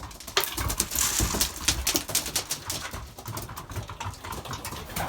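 Pigeons pecking at feed grain just thrown in for them: rapid, irregular tapping clicks.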